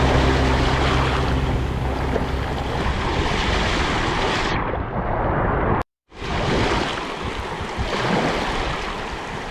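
Sea waves washing on the shore, a steady rushing noise, with a little wind on the microphone. Music fades out in the first couple of seconds, and about six seconds in the sound cuts out to silence for a moment before the surf resumes.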